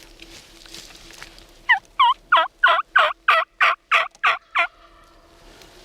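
A loud, close run of about eleven turkey yelps, each note dropping in pitch, coming roughly three a second for about three seconds.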